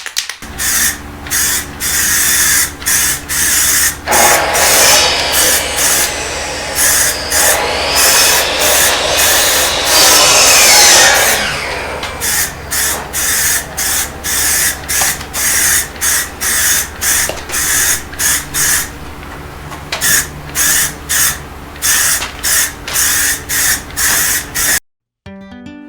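Aerosol spray can of high build primer surfacer spraying in short hissing bursts, about one a second, with one long continuous pass of several seconds near the start.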